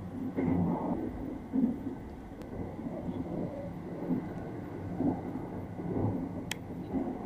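Sunrise Izumo sleeper train running, a steady low rumble heard inside the compartment, with soft irregular bumps and rustles of bedding being handled and a sharp click near the end.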